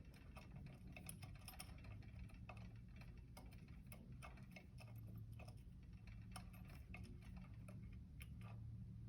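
Faint, irregular light clicks of small metal parts and hand tools being handled, over a low steady hum.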